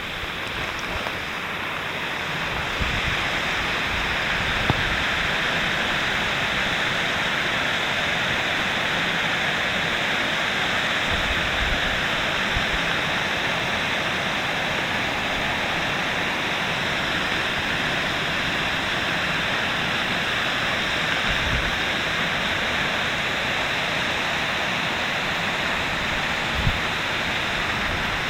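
Steady rush of falling water at a dam, a continuous hiss that builds over the first few seconds and then holds, with a few brief low thumps.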